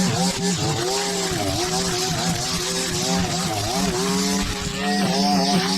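Small petrol engine of lawn-cutting equipment running hard, its pitch dipping and recovering over and over as it works through long overgrown grass.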